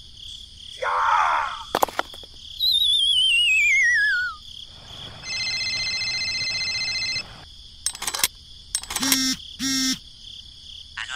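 Cartoon sound effects over a steady cricket-like insect chirring: a loud wavering whistle that slides down in pitch, then an electronic phone ringtone held for about two seconds, and a few short clicks and blips near the end.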